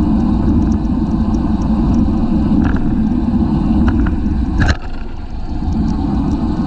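Wind buffeting a bicycle-mounted camera's microphone while riding in a race: a steady low rumble with scattered faint ticks. A sharp click comes about two-thirds of the way through, and the rumble drops for a moment after it before building again.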